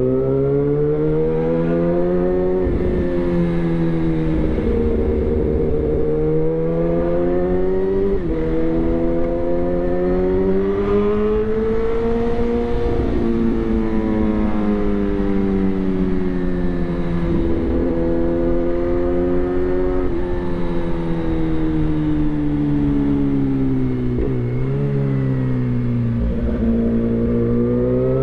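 Suzuki GSX-R1000 inline-four engine through a replica SC-Project exhaust, its pitch climbing under throttle and then dropping sharply, over and over.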